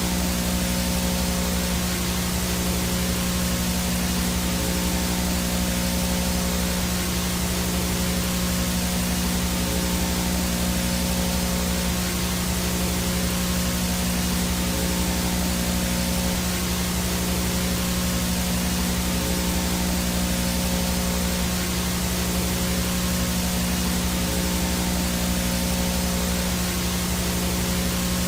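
VHS static with no signal: a steady hiss over a low buzzing hum, with a thin high whine on top, unchanging throughout.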